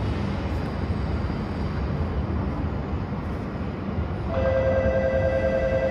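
Steady rumble of a Shinkansen train running out along the elevated platform track. About four seconds in, a steady ringing tone of several pitches starts and holds over it.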